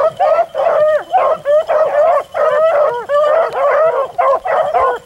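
A pack of beagles baying in full cry while running a rabbit: several hounds giving tongue at once in a steady, overlapping chorus of short rising-and-falling calls.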